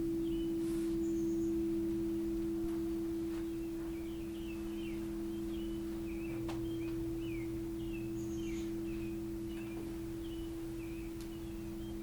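Singing bowl ringing out in a long, steady sustained tone of two pitches, slowly fading. Faint high chirps repeat throughout.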